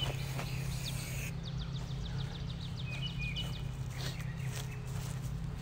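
Songbirds chirping, with a quick trill of short high chirps about a second and a half in and scattered two-note calls, over a steady low background hum.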